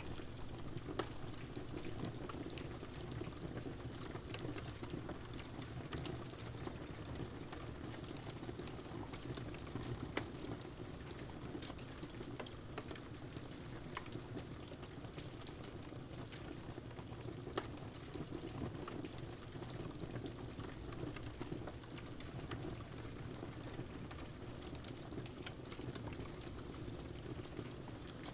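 Steady rain hiss mixed with a crackling wood fire, whose sharp pops and snaps come at irregular moments, a few of them louder than the rest.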